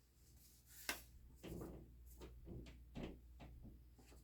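Near silence: low room tone with a few faint clicks and soft rustles, one sharper click about a second in.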